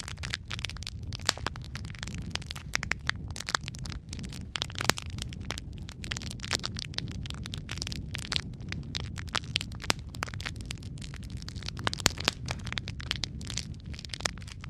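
Logs burning in a fireplace, crackling with frequent irregular sharp pops over a low steady rumble of the flames.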